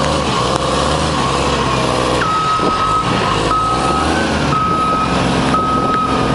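Hyster H800E heavy forklift's engine running. About two seconds in, its reversing alarm starts: a high beep held about a second at a time, with short breaks between.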